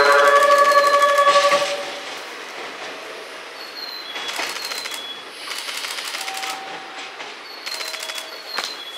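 Train Suite Shiki-shima (E001 series) sounding its music horn, a loud chord of several notes that stops about a second and a half in. After that comes the fainter, regular clatter of the train's wheels over the rail joints as it runs away.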